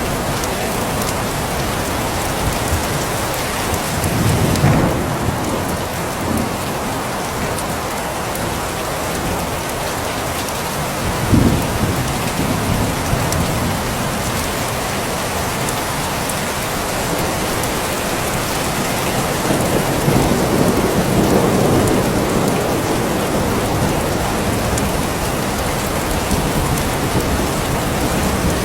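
Steady rain falling, with rolls of thunder rising over it: a rumble about four seconds in, a sharper clap near the middle, and a longer rumble in the second half.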